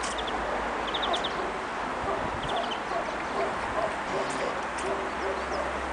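Birds calling: three quick runs of short high chirps, over a scatter of short low cooing or hooting notes repeated throughout.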